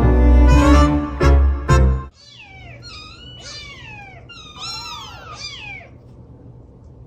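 Loud music that cuts off abruptly about two seconds in, followed by a domestic cat meowing repeatedly: about half a dozen short meows that fall in pitch.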